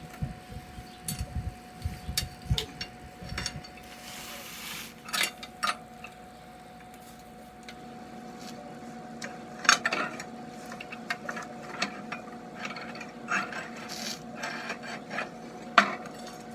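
Hand tools and metal motorcycle parts being handled: scattered clicks, knocks and scraping, with low thumps in the first few seconds. A faint steady hum sits underneath.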